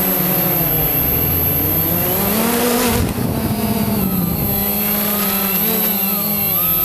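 Quanum Nova quadcopter's electric motors and propellers whining, several tones gliding up and down together as the throttle changes, with a short dip about three seconds in.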